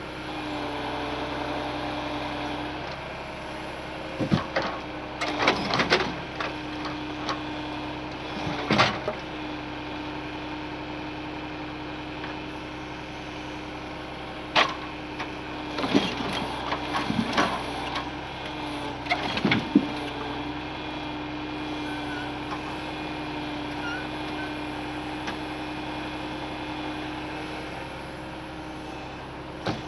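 Truck engine running steadily, with a handful of sharp knocks and clanks between about four and twenty seconds in.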